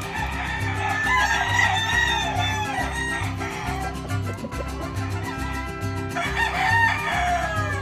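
Gamecock crowing twice, each crow a long wavering call of about two to three seconds, the first at the start and the second about six seconds in, over background music with a steady bass beat.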